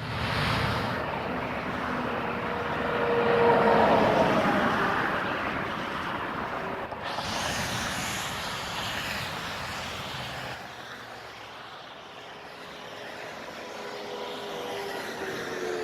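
Vehicle driving noise: a steady rush with a faint engine tone, swelling about three to four seconds in and changing abruptly twice, about seven and ten seconds in.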